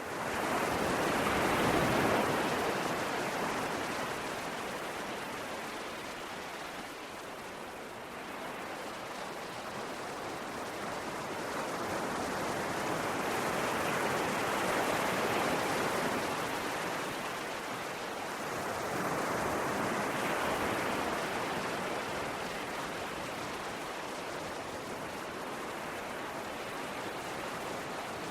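Sea waves washing in, a steady rush of surf that swells and eases in slow surges, with three stronger swells.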